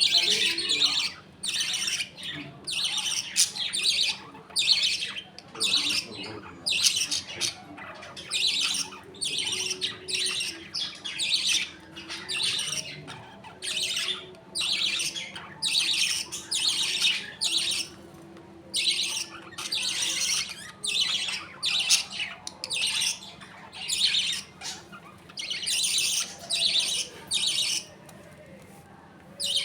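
A colony of budgerigars chattering and squawking, a steady run of short harsh calls several a second, with brief lulls.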